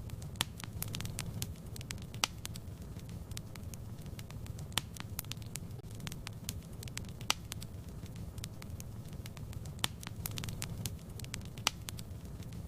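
Wood fire burning in a fireplace: a steady low rumble under irregular crackles and sharp pops, a few of them louder than the rest.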